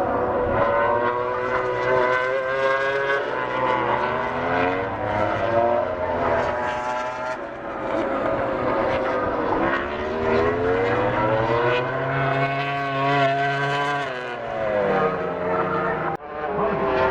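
MotoGP racing motorcycles' engines at high revs, several bikes at once. Their pitch falls away under braking and downshifts, then climbs again as they accelerate, a few times over. The sound cuts out suddenly for a moment near the end.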